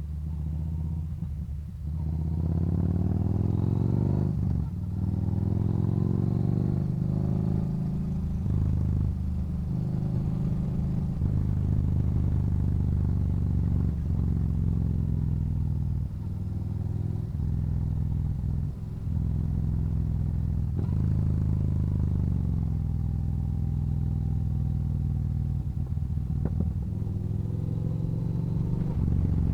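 Motorcycle engine pulling through the gears on the move. Its pitch climbs and then drops sharply at each shift, several times in the first twenty seconds, then runs more steadily near the end.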